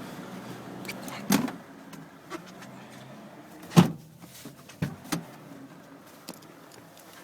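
Toyota Hiace van engine idling with a steady low hum just after a cold start. Several sharp knocks cut across it, the loudest a little under four seconds in.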